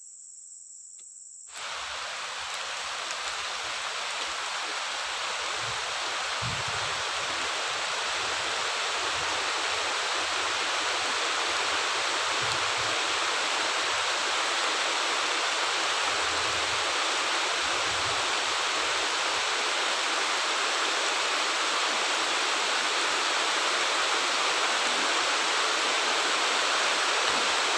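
Heavy rain falling: a dense, steady hiss that starts abruptly about a second and a half in and grows slightly louder.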